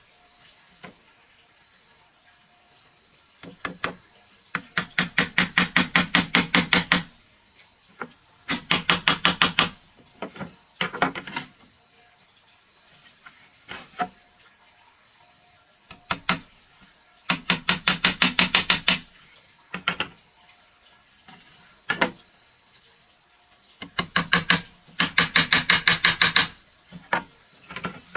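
Hammering on wood: four runs of quick, even blows, about eight a second for two to three seconds each, with single knocks in between.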